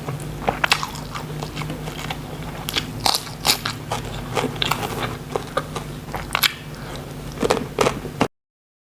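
A person eating close to the microphone, with crisp, irregular crunching bites and chewing of shrimp and raw vegetables, over a steady low hum. The sound cuts off abruptly near the end.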